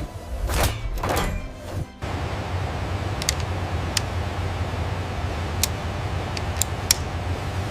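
Swishes and thuds for about two seconds, then an abrupt change to a steady low machine hum with scattered sharp clicks, under background music.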